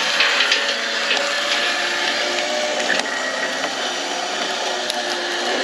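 Small crawler tractor's engine running steadily, with a few light clicks and knocks over it.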